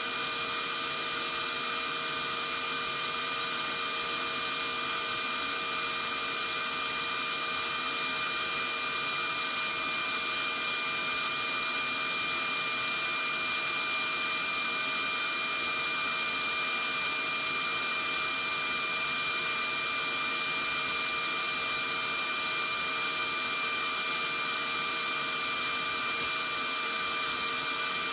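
Vacuum cleaner running steadily: a constant motor whine with several fixed tones over a hiss of rushing air.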